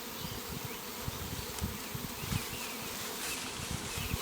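Swarm of honeybees buzzing steadily around a hive box as they settle into it, with a few soft low thumps. The swarm is being hived, and the bees are going in and fanning at the entrance.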